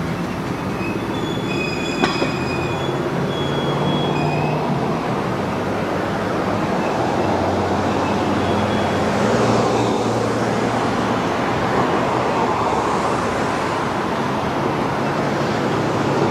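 A train rolling past, with a steady rumble of wheels on rail and thin high wheel squeals during the first few seconds. A single sharp knock about two seconds in.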